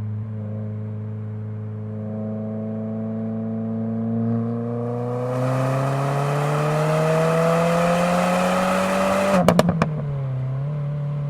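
2022 Subaru WRX's turbocharged 2.4-litre flat-four breathing through a muffler-less ETS axleback exhaust, revs climbing steadily for several seconds. Near the end come about four sharp exhaust pops as the throttle closes, and then the engine settles at lower revs.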